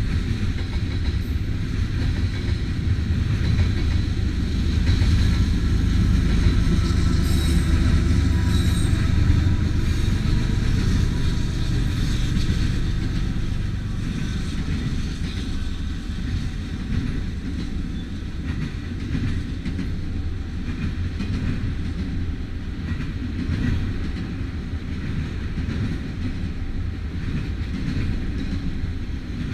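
Freight train cars rolling past: a steady low rumble with wheel clatter over the rail joints. It is loudest over the first dozen seconds, then eases a little and runs on steadily.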